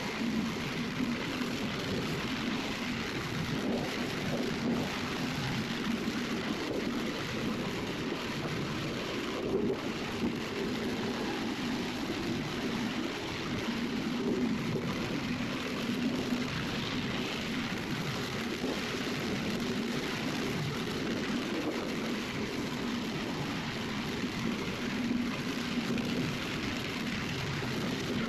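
Vibrating plate compactor running steadily as it compacts a bed of river stones.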